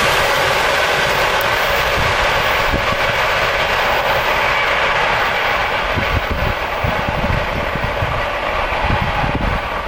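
ED4M DC electric multiple unit running past at speed: a steady rush of wheels on rails that slowly fades as the train draws away. Irregular low bumps of wind on the microphone grow in the second half.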